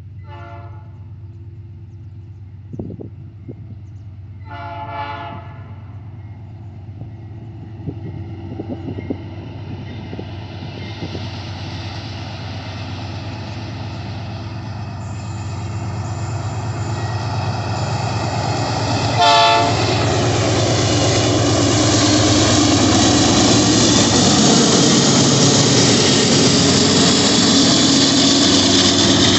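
Diesel locomotive horn sounding three times: a short toot, a longer blast about five seconds in, and another short toot near twenty seconds. Under it the train's engine runs steadily while the rumble of the approaching train grows louder from about ten seconds in.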